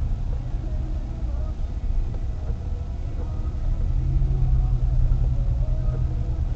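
Car driving: a steady low rumble of engine and road noise, with a deeper steady hum that comes in about four seconds in and holds.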